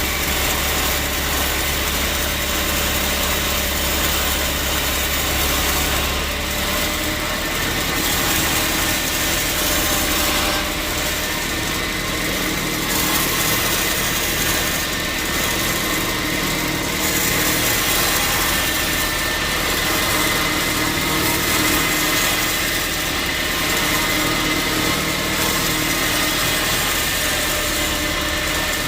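Sawmill machinery running: a steady, unbroken mechanical drone with a thin high whine over it.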